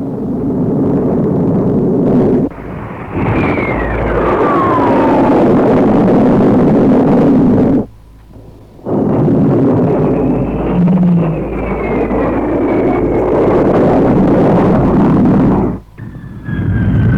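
Jet aircraft, Sea Vixens and a Buccaneer, flying past low and loud, each pass with a falling whine as it goes by. The sound breaks off abruptly three times where the tape recording is cut between passes.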